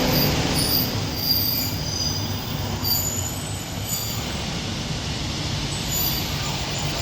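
Northern Class 150 and Class 156 diesel multiple unit at the platform, its underfloor diesel engines running with a steady low rumble, heavy rain hissing over it. A few short high squeaks come in the first few seconds.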